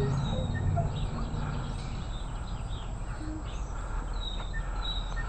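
A few short, high bird chirps, faint, over a steady low rumble.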